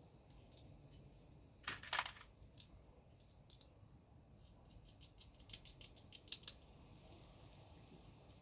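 Small nuts and bolts clicking and clattering as they are handled, with a louder clatter about two seconds in and a run of quick light ticks a little past halfway.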